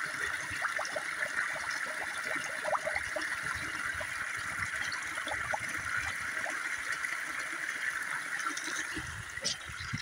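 A small mountain brook running and trickling over rocks, a steady rush with small splashes and plops.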